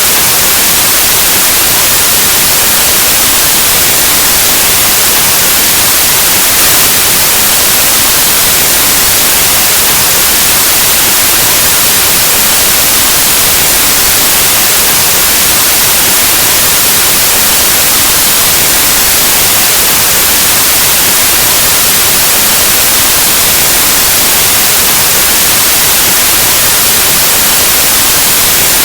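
Steady, loud white noise: even, full-spectrum hiss like analog TV or radio static, unchanging throughout.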